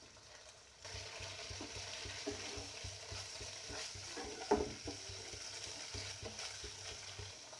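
Wooden spatula stirring and scraping paneer stuffing around a frying pan, with a steady sizzle of the mixture frying in ghee as its extra water cooks off. The sizzle comes in about a second in, and the spatula gives one louder knock about halfway.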